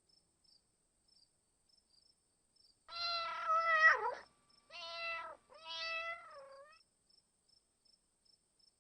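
Domestic cat meowing three times, starting about three seconds in. The first meow is the longest and loudest, and each call falls in pitch at its end.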